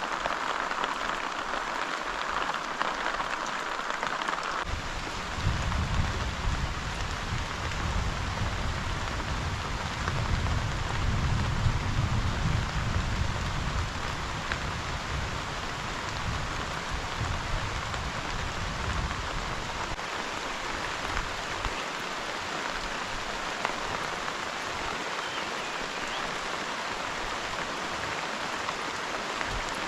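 Steady rain falling, with a deep low rumble underneath from about five seconds in until about twenty seconds in.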